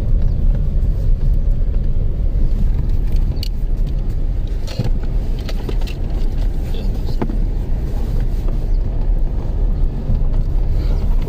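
Car driving, a steady low rumble of road and engine noise with a few faint clicks.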